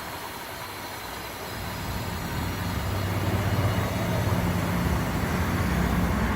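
A car engine running, with a broad road or tyre noise, its low engine note coming up and growing steadily louder from about two and a half seconds in.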